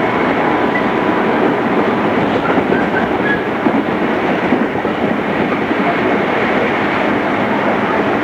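Interior running noise of a JR East 211 series electric multiple unit under way: a steady rumble of wheels on rail, with a few faint brief squeals about three seconds in.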